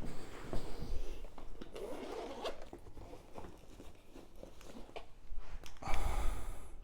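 Handling noise from hands at work on a vacuum-hose repair: rustling and light clicks, then a louder zipper-like rasp lasting about a second near the end.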